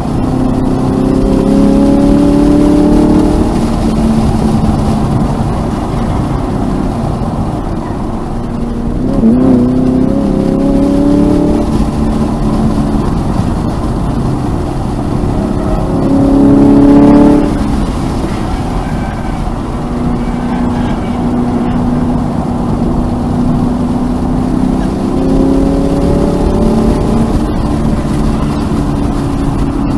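Toyota GR86's 2.4-litre flat-four engine heard from inside the cabin under hard driving, its pitch climbing several times as it pulls through the revs and falling back between pulls, loudest about seventeen seconds in.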